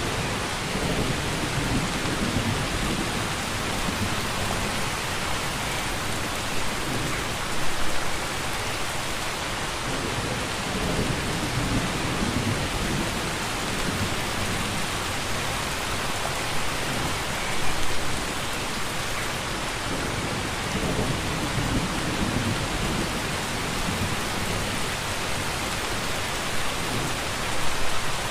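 Steady heavy rainfall with low rolling thunder rumbling underneath. The rumbles come and go, with brief louder swells about every ten seconds.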